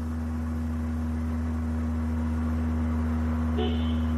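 Steady low droning hum of a car's driveline, with a higher steady tone above it, slowly growing louder. It is the drone that occurs at propeller-shaft speed, likely caused by an out-of-balance propeller shaft.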